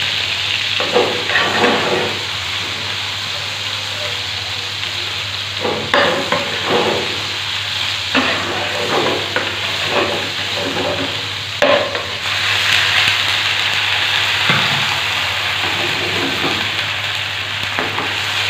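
Cubed chicken frying in hot oil in a pan, sizzling steadily, with a spoon stirring and scraping the pieces around at irregular moments.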